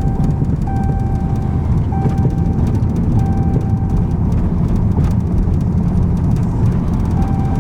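Dodge Scat Pack's 6.4-litre HEMI V8 and road noise as a steady low drone from inside the moving car, with a repeating beep-like tone sounding about once a second, stopping about halfway through.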